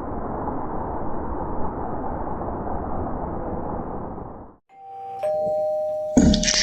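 A steady rushing noise that cuts off abruptly, then a two-note ding-dong chime, a higher note followed by a lower held one, like a doorbell. A loud sudden sound breaks in right at the end.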